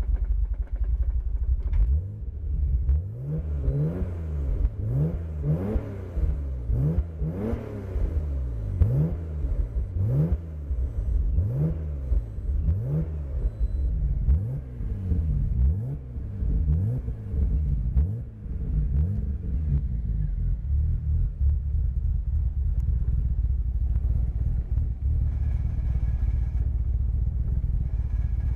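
The 2JZ-GTE twin-turbo straight-six of a 1994 Toyota Supra RZ, with a custom front pipe and muffler, is revved in quick blips. Each one rises and falls back, about one a second for most of the stretch, before the engine settles into a steady idle for the last several seconds.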